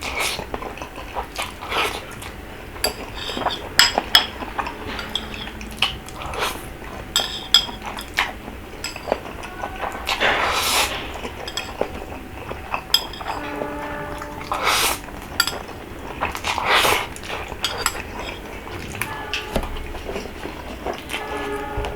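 Eating utensils clinking and tapping against a bowl, with the eater's eating noises between the clinks.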